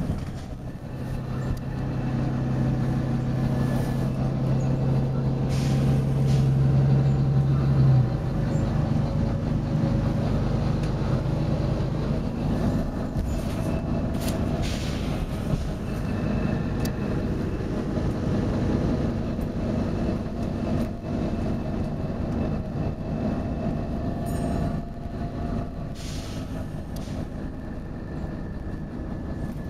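Volvo B9TL bus running, its engine holding a steady drone that changes abruptly about eight seconds in. Several short hisses of compressed air from the bus's air system come through the engine noise.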